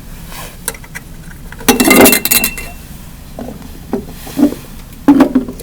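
Hard objects clinking and knocking together: a quick run of clinks with a short ringing note about two seconds in, then several single knocks.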